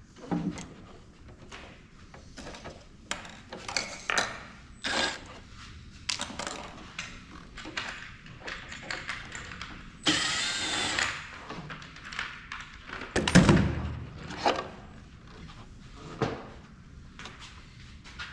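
Clicks and knocks of hand tools and metal parts being handled while a thermal printer is dismantled, with a burst of noise lasting about a second about ten seconds in and a heavy thump about three seconds later.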